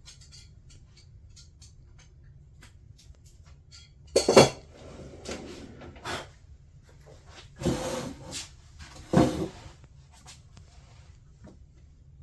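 Hard parts and tools being handled on a workbench: light ticks and taps, with three louder clattering, scraping bursts about four, eight and nine seconds in.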